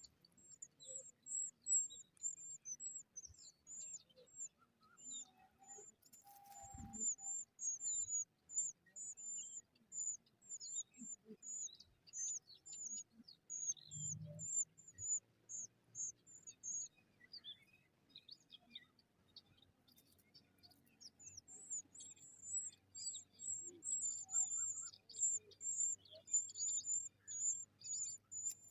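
A baby robin chirping: a rapid run of thin, high-pitched peeps that pauses for a few seconds about two-thirds of the way through, then starts again.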